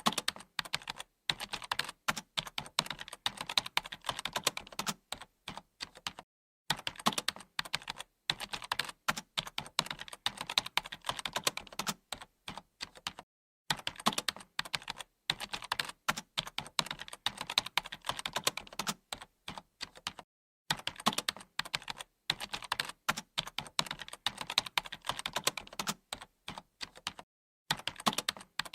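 Typing on a computer keyboard: a fast, uneven stream of key clicks in runs several seconds long, with brief pauses between them.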